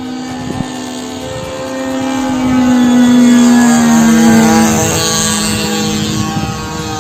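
DLE 20cc single-cylinder two-stroke petrol engine with a Pitts-style muffler on an RC model plane, running steadily in flight. It grows louder to a peak about three seconds in, its pitch dropping slightly as it passes, then fades somewhat.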